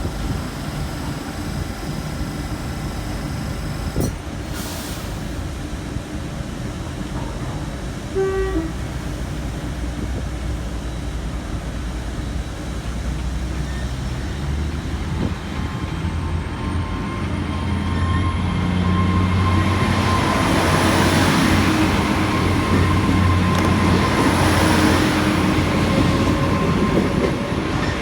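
Passenger train pulling away from the platform. Its engines hum louder in two steps, and a high whine rises slowly in pitch as it gathers speed and grows louder toward the end. A short beep sounds about eight seconds in.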